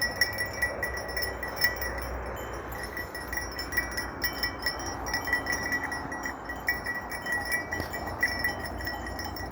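Bells on grazing Sakız sheep clinking and ringing irregularly, many small strokes overlapping.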